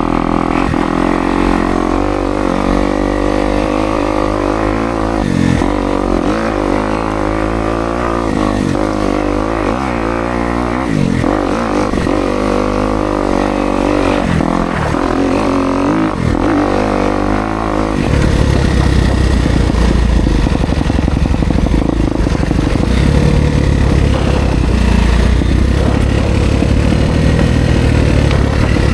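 Kawasaki KX250X four-stroke dirt bike engine on trail, its revs rising and falling with the throttle. About two-thirds of the way through, the sound turns lower and rougher.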